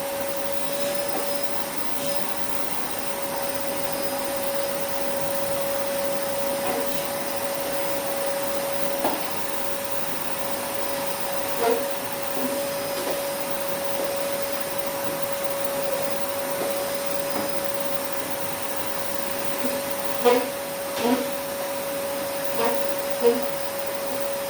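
Vacuum cleaner running steadily with a constant whine over its hiss, with a few short knocks, several of them near the end.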